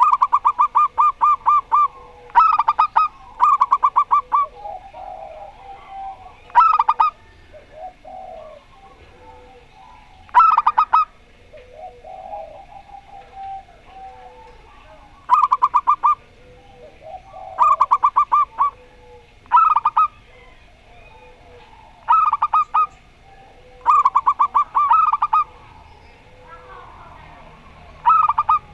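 Two zebra doves (perkutut) calling back and forth: short phrases of rapid, staccato cooing notes every two to three seconds, with softer, lower cooing between them.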